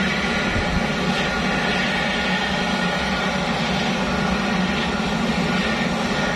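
Walter M601 turboprop engine of an L-410 UVP Turbolet running steadily during a ground adjustment run: a loud, even drone with several held whining tones above it.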